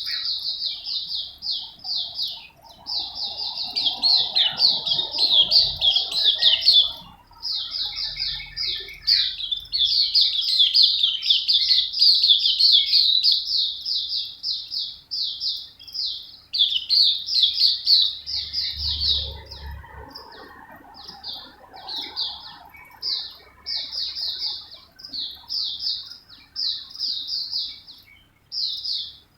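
A small bird chirping in long, fast strings of short, high notes, about five a second, broken by brief pauses.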